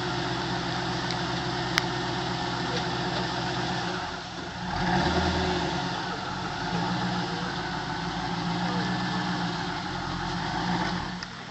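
2000 Pontiac Trans Am WS6's LS1 V8 idling steadily, with a brief swell in the engine sound about five seconds in.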